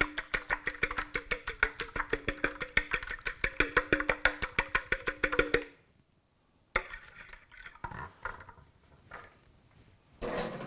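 Two eggs being beaten in a bowl, the utensil clicking rapidly against the bowl at about seven strokes a second, stopping about six seconds in. A single sharp clack and some faint kitchen clatter follow.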